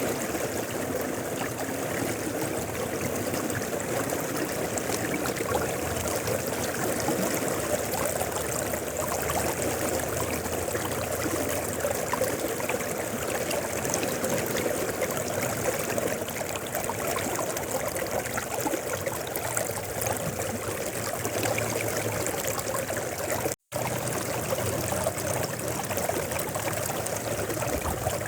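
Mountain river flowing, a steady rushing and babbling of water. It is broken once, about three-quarters of the way through, by a split-second gap of silence.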